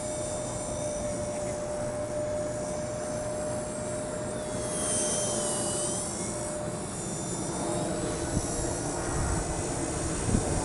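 Blade mCP X micro RC helicopter in flight: a steady high-pitched motor and rotor whine whose pitch dips and rises again around the middle, over wind rumble on the microphone.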